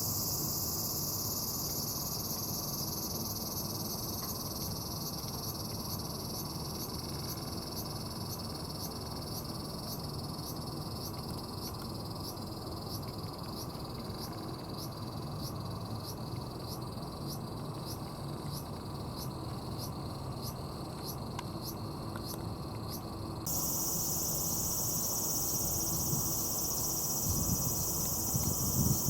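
Summer insects shrilling steadily in a high-pitched chorus, with a regular pulsing of about two beats a second through most of it. The pulsing switches abruptly to a denser continuous shrill near the end. Low rumble and a few soft thumps underneath.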